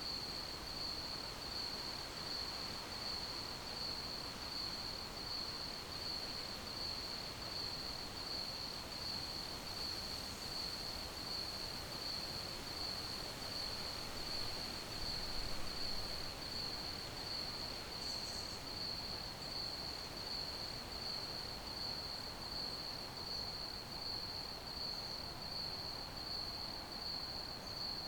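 Crickets chirping in a steady, even rhythm at one high pitch, over a constant background hiss.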